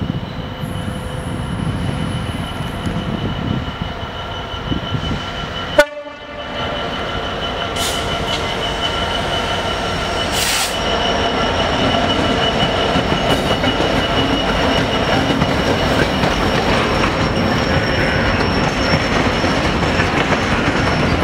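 A train running through the station: a steady whine over rumbling wheel and rail noise, growing louder after a sharp click about six seconds in.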